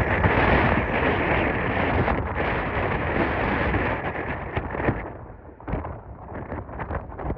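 Strong wind buffeting the microphone: a loud rushing for about five seconds, then easing into separate gusty thumps.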